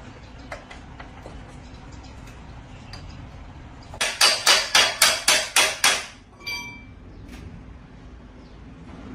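A quick run of about nine hammer blows, roughly four a second, then a brief metallic ring as the last blow dies away.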